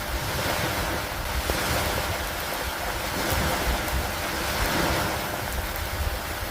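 Steady rain in a storm with gusting wind, a continuous hiss over a low rumble that swells and eases every two to three seconds.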